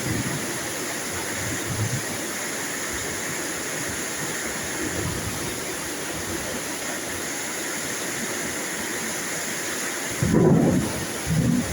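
Steady rain hissing, with soft low rumbles and two short, louder low rumbles near the end.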